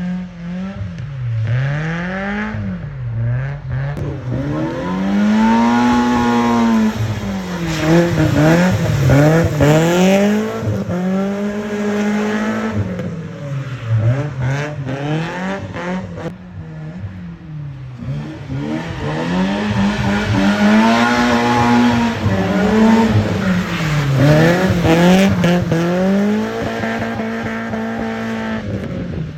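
BMW E30 318is's M42 1.8-litre four-cylinder engine being revved hard up and down over and over while the car is drifted, its pitch climbing and dropping every second or two, with a few longer pulls held near the top.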